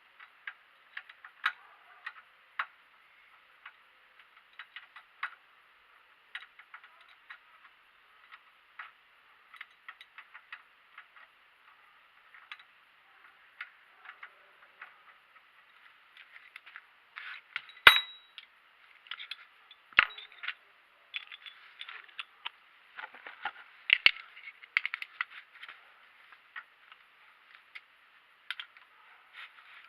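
Metal tools and parts clinking and rattling as they are handled during brake work. The clinks are scattered at first and grow busier in the second half, with a loud metallic knock about 18 seconds in and another about 20 seconds in.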